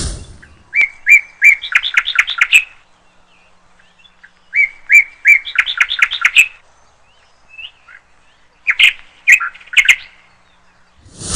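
A songbird singing: each phrase opens with three clear notes and runs into a fast trill, heard twice about four seconds apart, with a shorter run of notes near the end. A brief whooshing swell at the very start and end.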